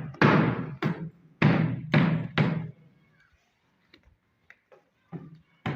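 A run of heavy booming knocks about half a second apart, each ringing out briefly, then a few faint taps and one more knock near the end.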